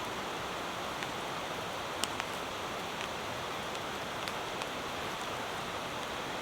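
Light rain falling steadily, a continuous even hiss with a few sharp ticks scattered through it.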